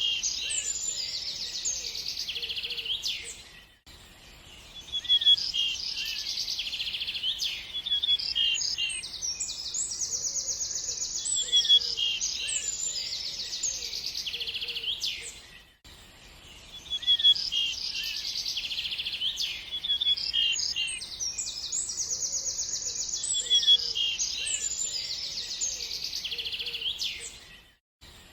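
Small songbirds chirping and trilling in quick, high-pitched phrases, several calls overlapping. The same stretch of birdsong repeats about every twelve seconds, with a brief gap each time it starts over.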